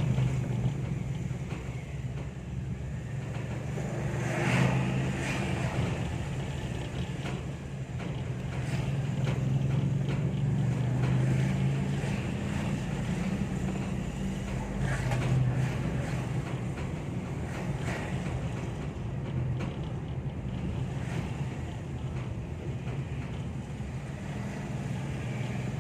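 Steady low engine hum and road noise of a moving vehicle, with a few brief faint sounds over it.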